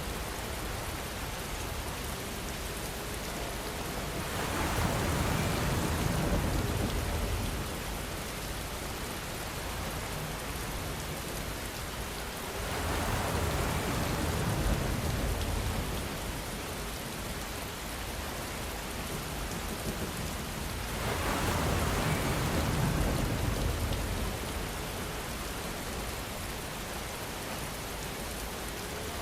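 Steady rainfall pattering on surfaces. It swells louder and heavier three times, each swell lasting a few seconds.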